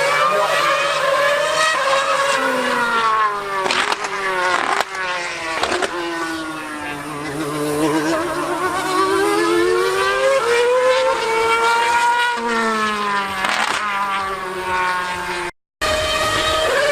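High-revving race car engine at speed, its pitch falling and rising over several seconds with quick breaks at the gear changes. A steady low hum runs underneath, and the sound cuts out for an instant near the end.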